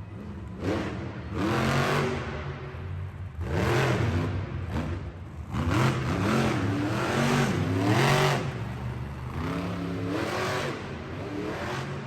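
Monster truck engine revving hard in repeated surges, its pitch climbing and falling several times.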